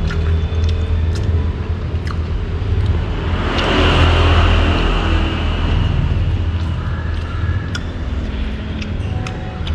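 Road traffic with a steady low engine hum; a vehicle passes close about three and a half seconds in, swelling with a higher whine for a couple of seconds before fading. Light clicks are scattered throughout.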